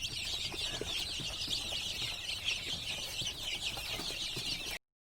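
Many birds chirping at once in a dense, continuous chatter of high, overlapping calls, which cuts off abruptly near the end.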